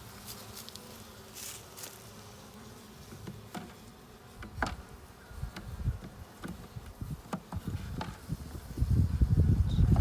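Honey bees buzzing in a steady hum around an open hive, with a few light clicks and knocks scattered through. The low buzzing grows much louder near the end.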